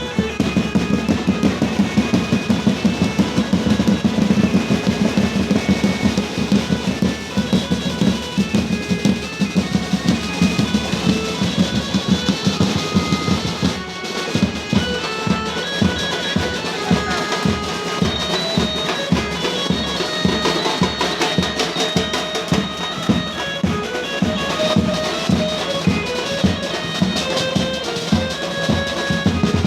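Loud procession music: fast, steady drumming with a melody of held notes stepping up and down over it.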